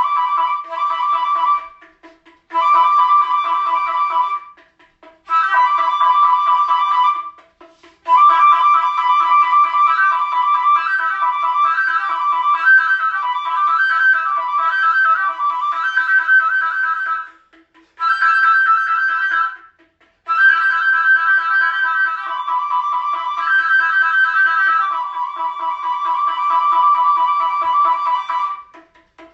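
Music: a flute-like wind instrument playing a melody in phrases of a few seconds, with short pauses between them.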